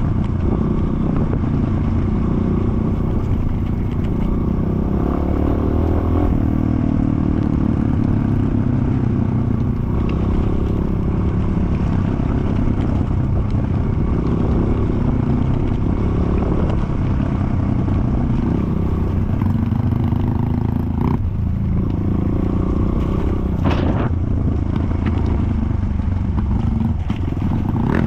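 Off-road enduro motorcycle engine running steadily as the bike is ridden along a muddy trail, with a few knocks and clatter from the ride near the end.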